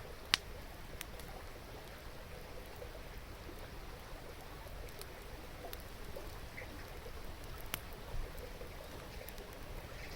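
Wood campfire crackling, with a sharp pop about a third of a second in and a few smaller snaps later, over the steady babble of a river.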